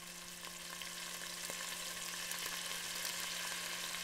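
Food sizzling in a hot pan: a steady crackling hiss full of fine pops, growing slightly louder.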